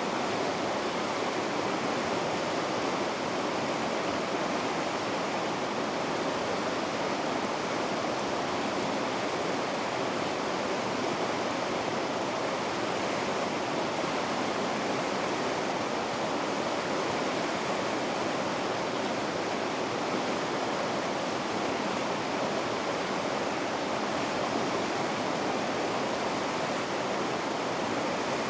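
River rapids: fast water rushing and churning in a steady, unbroken rush with no change.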